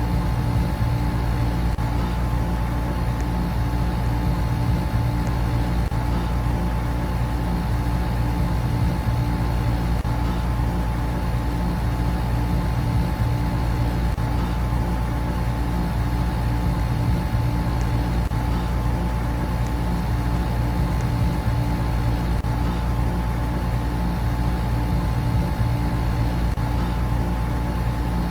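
Air conditioner and electric fans running together: a steady, even hum with a deep low drone and a faint constant whine above it.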